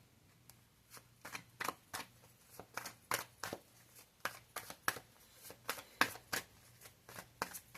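Tarot cards being shuffled by hand: a string of irregular soft snaps and slaps of card on card, a few a second.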